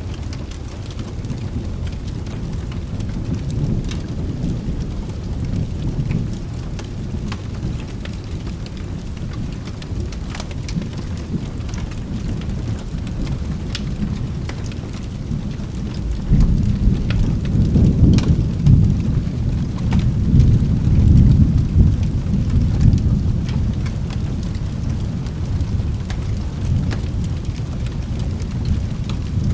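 Steady rain with a long, low rumble of thunder that swells about halfway through and dies back after several seconds. Short sharp clicks are scattered throughout.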